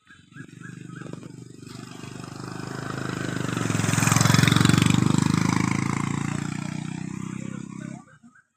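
A motor vehicle's engine passing by: it grows steadily louder to a peak about halfway through, then fades away and cuts off abruptly near the end.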